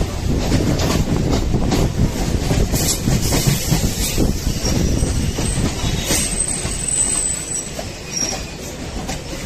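Moving Indian Railways suburban local train: the steady rumble and rattle of the wheels on the rails, with a few sharp knocks and a thin, high wheel squeal about six seconds in. The running noise eases a little near the end.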